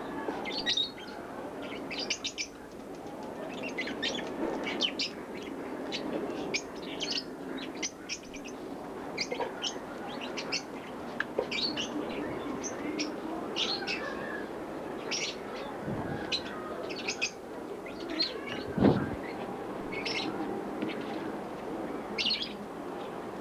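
Small birds chirping over and over in short, high calls, with a low background hiss. A single dull thump stands out near the end.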